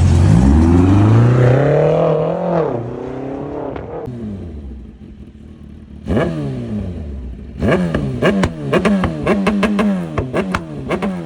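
Performance car engine accelerating hard away, its note climbing for a couple of seconds and then fading. Near the end another engine is blipped again and again in quick, stuttering revs with sharp cracks from the exhaust.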